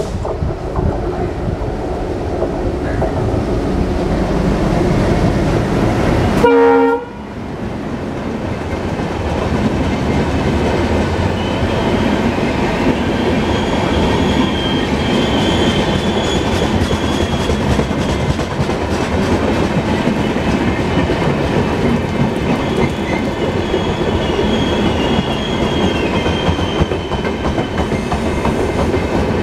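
WDM-3A diesel locomotive approaching at speed and sounding a short horn blast about six seconds in. The passenger coaches then pass close by with a steady clickety-clack of wheels over the rail joints and a thin high squeal now and then.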